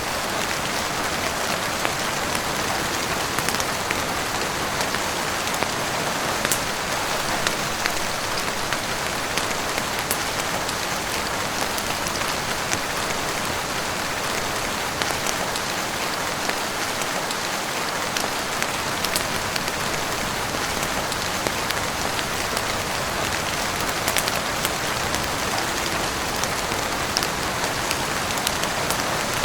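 Steady heavy rain falling on a roof and windows, an even hiss dotted with scattered sharp ticks.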